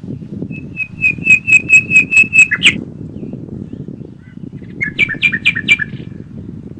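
A songbird singing two phrases. The first is a run of about ten evenly spaced high notes, about four a second, ending in a quick downward flourish. About two seconds later comes a shorter phrase of four two-toned notes. Wind rumbles low underneath throughout.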